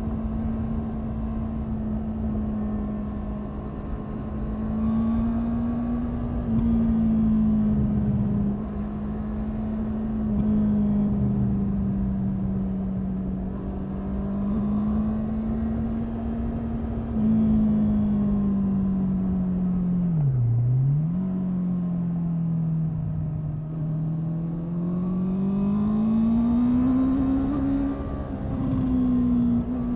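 Honda 649 cc inline-four engine of a CBR650R/CB650R motorcycle running under way, its pitch rising and falling with the throttle. About twenty seconds in the revs drop sharply and come straight back, like a gear change, and they climb again near the end.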